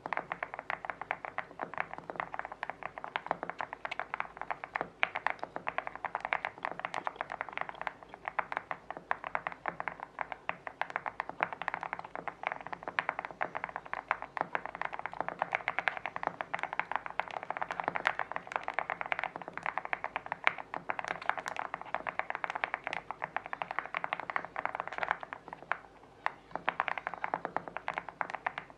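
Mechanical keyboard with lubed Ice King linear switches, their stem tips cut, being typed on steadily: a dense, even run of low-pitched keystroke clacks, with a short pause near the end.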